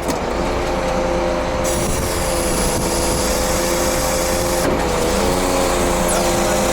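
Scania truck's diesel engine running at a steady speed, with a sharp click right at the start.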